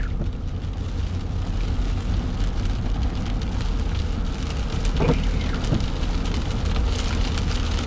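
Rain pattering on a car's windshield and roof over the steady low rumble of the car driving. A windshield wiper squeaks across the glass about five seconds in; the wipers are dry after the car sat for months, and the owner thinks they probably need replacing.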